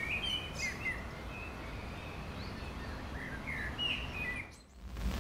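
Birds chirping and twittering in short scattered calls over a steady low background rumble; the birdsong cuts out suddenly near the end.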